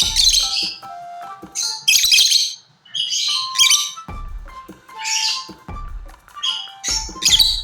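Pet lovebirds giving shrill chirps and squawks in short bursts, several in a row, over background music with held notes.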